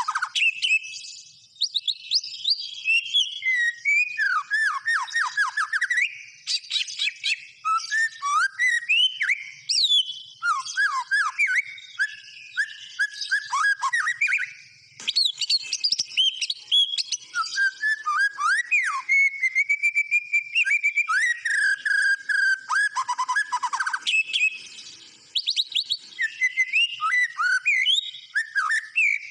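White-rumped shama singing in a long, varied stream of rich whistles, fast down-sweeping notes and trills, broken only by brief pauses.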